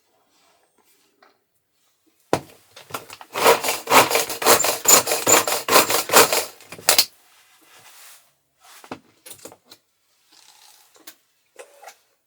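A rapid run of rubbing strokes for about four and a half seconds, then a few light clicks and knocks.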